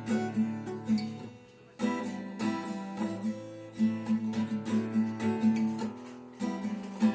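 Acoustic guitar strumming chords in a steady rhythm, with short breaks about a second and a half in and again near the end.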